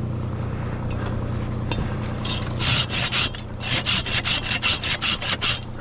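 Handsaw cutting through a tree limb in fast, rapid strokes that start about two seconds in, over a steady low hum.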